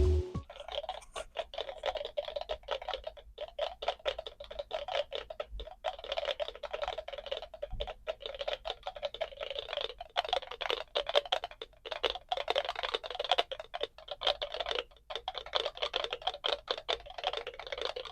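A box of about twenty NE555 'raindrop' sound-generator circuits, each clicking through its own small speaker at its own rate, together giving a dense, irregular patter of clicks imitating rain.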